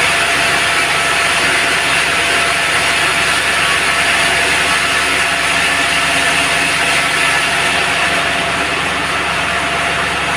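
Band sawmill running steadily: a loud, even machine noise with a constant high hum.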